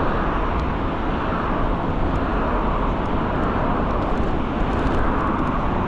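Steady rush of wind on the microphone and road noise from an Ikingi S6 Pro electric scooter riding along, with a few faint light ticks.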